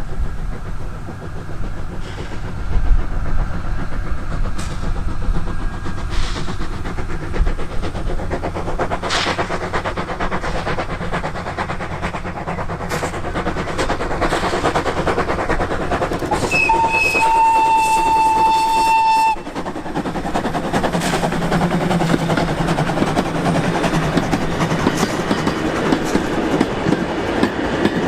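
Steam train running, wheels clicking over rail joints, with one steam whistle blast of about three seconds a little past halfway that cuts off abruptly.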